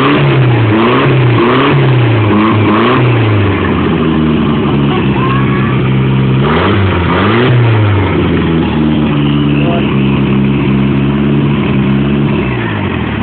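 Mitsubishi Lancer engine running on its first start after a year-long build. It is given about five quick throttle blips, then one bigger rev about halfway, and settles to a steady, loud fast idle.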